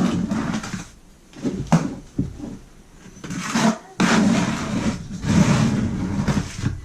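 Trowel scraping and spreading thinset mortar across a plywood subfloor in several strokes, the last one lasting nearly three seconds.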